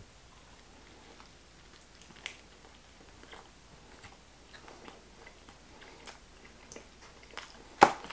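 A person chewing a bite of Cajun tuna taco: soft mouth sounds with faint small clicks. A single sharp knock near the end.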